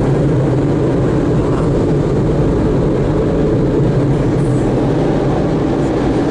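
Automatic tunnel car wash machinery heard from inside the car's cabin: a steady, loud, low rumble with a constant hum.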